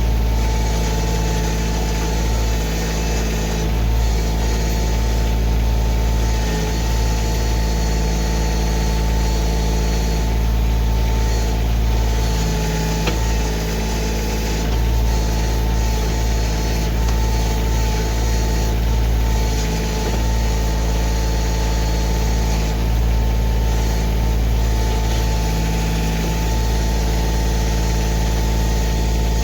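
Kioti CK2610 tractor's three-cylinder diesel engine running steadily while it works the backhoe.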